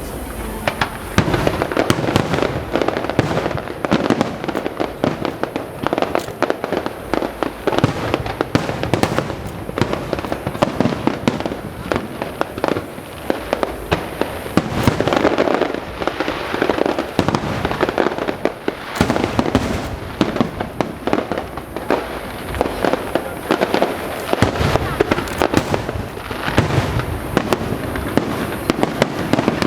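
Fireworks display: a rapid, unbroken barrage of aerial shells bursting, with many bangs and crackles every second.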